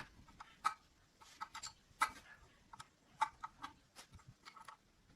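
Hand tools clicking and tapping on metal parts: faint, irregular light strikes, a few a second, with short pauses between them.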